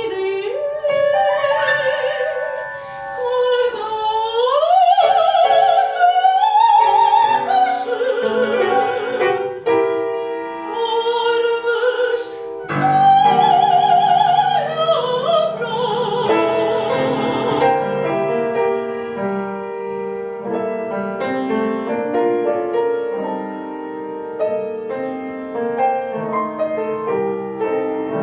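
Classical soprano singing an art song with piano accompaniment, the voice rising in glides with a wide vibrato. The voice stops about two-thirds of the way through and the piano plays on alone.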